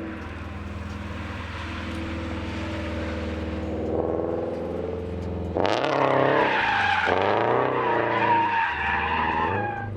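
Car drifting: the engine revs as the tyres skid. About halfway through it gets louder, with the revs rising and falling and the tyres squealing.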